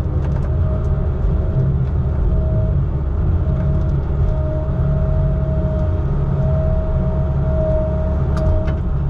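Heavy diesel logging equipment running steadily: a low engine rumble with a steady higher whine over it, at an even level.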